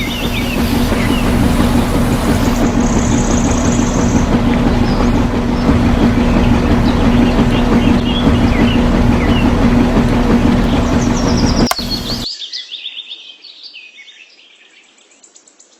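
Steady machine hum, a constant low tone over noise, with birds chirping. About twelve seconds in the hum cuts off suddenly, leaving quieter birdsong.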